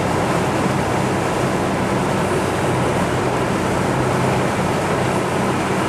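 Steady cabin noise of a four-wheel-drive pickup truck driving on a snowy road: a low engine hum and road noise, mixed with the heater's defrost fan blowing.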